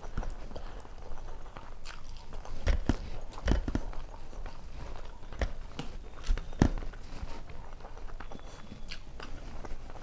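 Close-miked chewing of rice and curry, with wet mouth clicks and lip smacks coming irregularly. A few louder smacks fall about three seconds in and again near two-thirds through.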